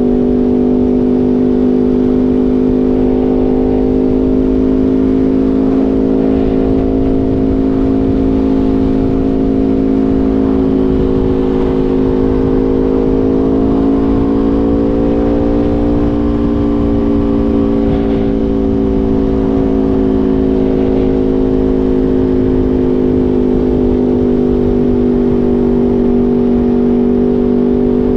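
Aprilia Tuono V4 motorcycle's V4 engine running loud and steady at constant revs. The pitch rises a little about halfway through, then eases back down.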